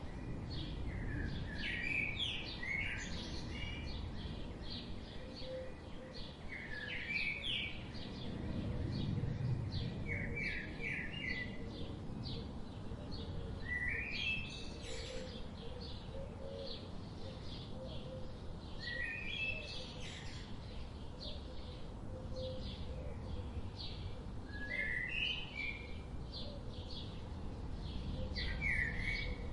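Tropical forest birdsong: one bird repeats a short, rising phrase about every five seconds over a constant background of quick high chirps and a low outdoor rumble.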